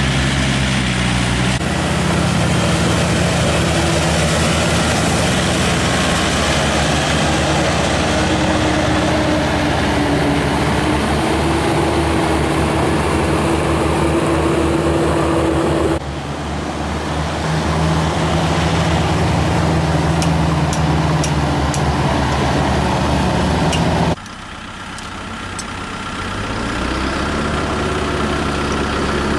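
Tractor engine running steadily, its pitch creeping slowly upward partway through. Twice the sound drops abruptly and then builds back up.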